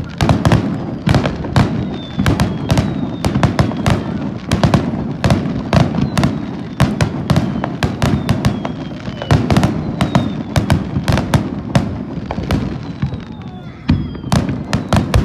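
A fireworks display: shells bursting and crackling in quick, dense succession, several bangs a second, with a few falling whistles over the top.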